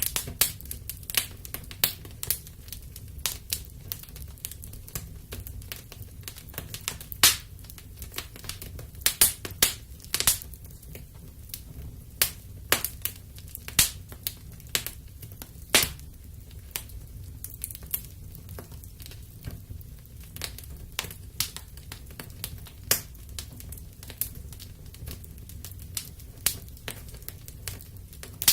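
Wood fire crackling in a fireplace: irregular sharp pops and snaps, several a second, some louder than others, over a low steady rumble of the flames.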